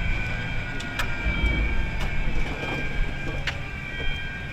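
Steady low rumble of a moving vehicle heard from inside its cabin, with a faint steady high whine and a few sharp clicks.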